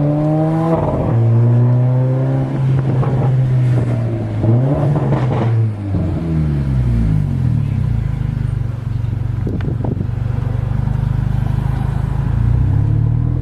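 Mercedes-AMG CLA 45's straight-piped turbocharged inline-four running loud under way. The engine note climbs in pitch at the start, holds steady, drops and climbs again a few seconds in, then rises once more near the end.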